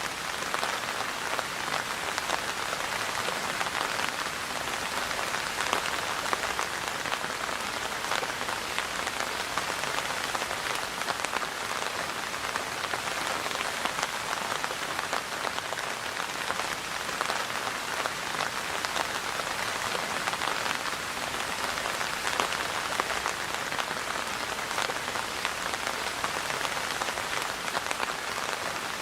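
Steady rain falling and pattering on a surface, an even hiss of many drops with no rises or breaks.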